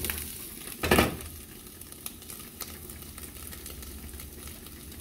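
Ground beef sizzling and crackling steadily in a frying pan, with one sharp clank of cookware about a second in.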